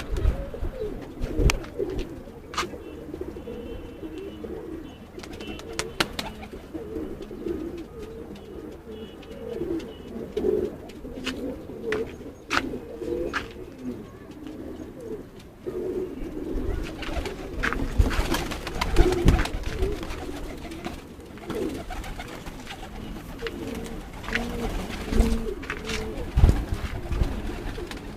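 A flock of domestic pigeons cooing continuously, several birds overlapping, with scattered sharp clicks and taps among them.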